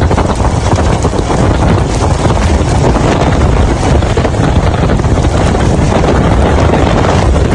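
Storm wind buffeting the microphone: a loud, unbroken rush with a heavy low rumble.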